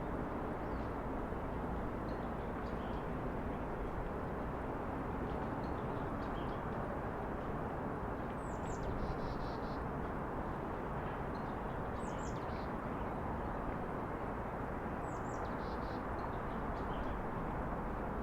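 Steady low hum of city traffic with a bird calling three times, a few seconds apart, each call a short high note falling in pitch, among faint scattered chirps.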